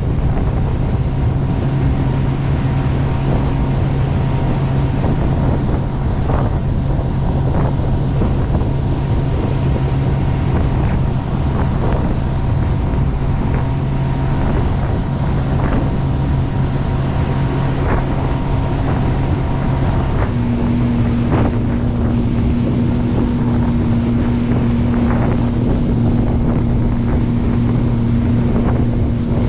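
Jet boat running under way with a steady engine drone, wind buffeting the microphone. About 20 seconds in, the engine note shifts slightly.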